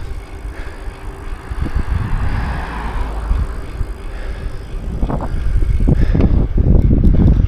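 Riding a bicycle along the street: wind rushing over the microphone and road noise from the ride, a low rumble that gusts loudest in the last couple of seconds.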